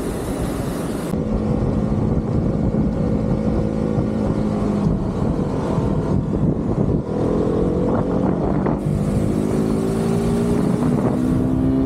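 KTM RC motorcycle's single-cylinder engine running at highway speed under heavy wind rush on the microphone. The engine note holds steady, then rises in pitch twice in the second half as the bike accelerates.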